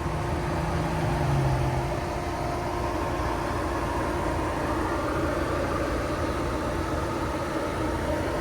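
Steady mechanical hum over continuous noise, like an engine idling, with a low tone that drops slightly in pitch and stops about two seconds in.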